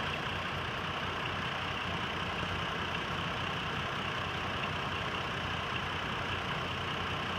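2004 Chevrolet Trailblazer engine idling steadily, a truck with a cylinder 3 misfire under diagnosis.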